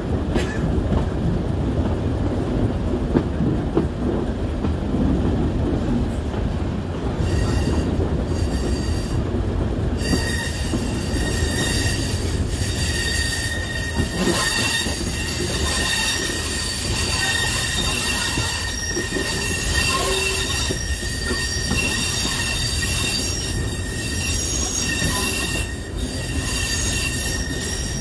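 Passenger train running, heard from inside a carriage: a steady low rumble of the wheels on the track. From about ten seconds in comes a high-pitched wheel squeal of several held tones that comes and goes.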